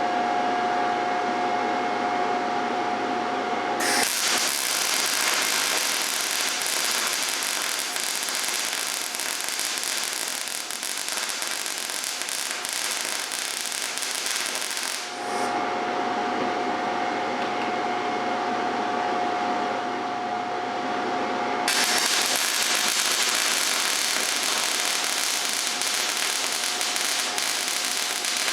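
MIG welding arc on 75% argon / 25% CO2 shielding gas, set at 17 volts and wire speed 90, crackling and hissing in two long runs: the first starts about four seconds in and stops around the middle, the second starts again about two-thirds of the way through. A steady hum holds in the pauses between the runs.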